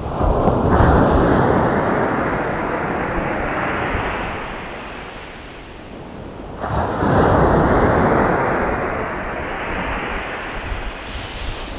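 Ocean surf breaking on a beach: a wave crashes just after the start and washes out over several seconds, then a second wave breaks suddenly about seven seconds in and fades the same way.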